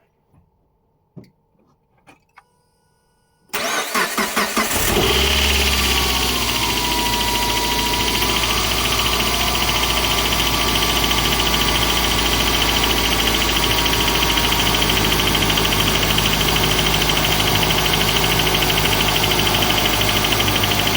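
Suzuki J20 four-cylinder engine cranked by the starter, catching after a second or so of quick pulses, then idling steadily. The idle carries the tapping that turned out to be a shot bearing in one of the accessory-belt pulleys.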